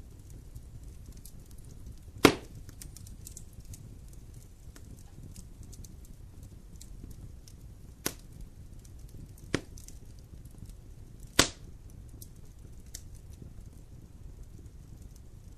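Wood fire burning with faint scattered crackling and four sharp pops of wood snapping in the heat, the loudest about two seconds in and near eleven seconds in.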